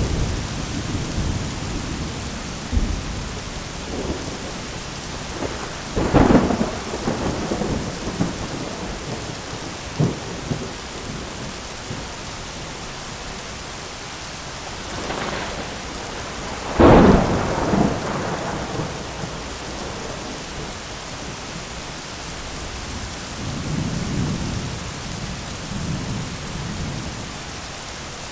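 Thunderstorm: steady rain with rolling thunder, two sharp thunderclaps about a quarter and just over halfway through, the second the loudest, and lower rumbles between them.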